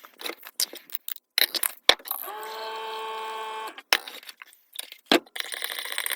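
Clinks and knocks of small hard objects being handled, with a steady pitched hum for about a second and a half midway and a fast buzzing rattle near the end.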